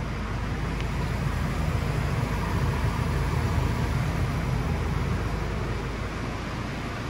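Ford Ranger Wildtrak's 2.0-litre bi-turbo four-cylinder diesel engine running at idle: a steady low rumble that swells slightly in the middle and eases back near the end.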